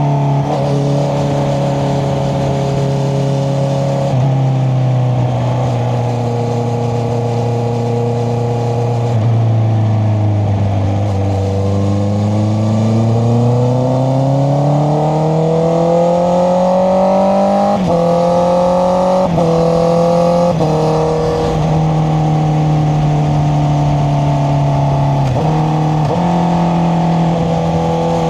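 Honda CBR650R's inline-four engine running through an Akrapovic exhaust while riding. The revs drop about four seconds in and sag lowest around a third of the way through, then climb steadily under acceleration. There are a few quick steps in pitch from gear changes, with steady cruising between them.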